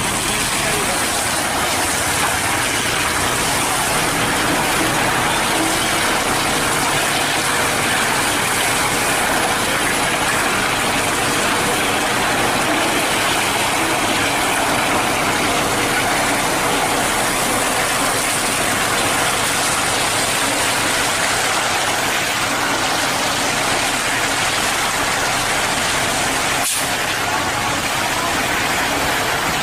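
Hino cement mixer truck running steadily, a continuous loud mechanical noise with no change in pitch, broken only by a momentary dropout near the end.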